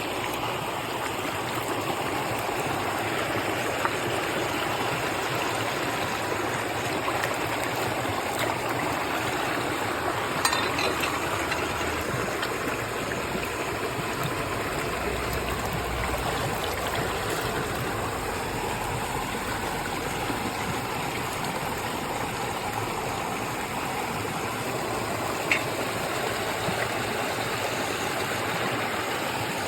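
Flowing water rushing steadily, as of a stream, with a couple of brief clicks about a third of the way in and near the end.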